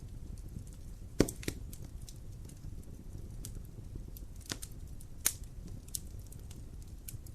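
Wood fire in a fireplace crackling, with scattered sharp pops over a low steady rumble of the flames; the loudest pop comes about a second in.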